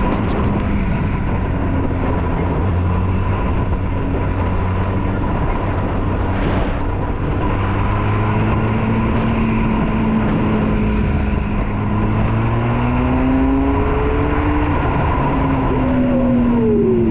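Benelli Leoncino 500's parallel-twin engine running on the road, with steady wind rush over the mic. The engine note climbs through the middle and drops sharply near the end.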